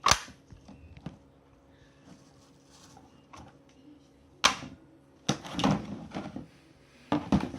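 Sharp clicks and rattling from a plastic vacuum-cleaner floor nozzle being handled: one click at the start, another about four and a half seconds in, then a cluster of short clicks and rustling near the end.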